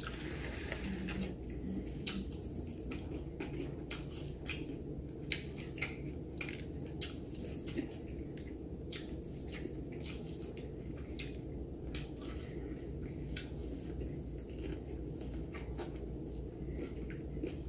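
Close-miked chewing and mouth sounds of a man eating fried chicken: a run of many short, sharp clicks and smacks over a steady low hum.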